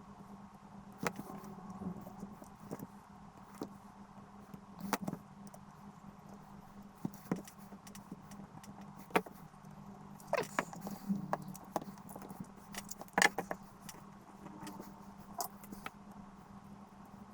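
Scattered clicks and clinks of tools and small parts being handled on a workbench during the inverter repair, irregularly spaced, over a faint steady hum.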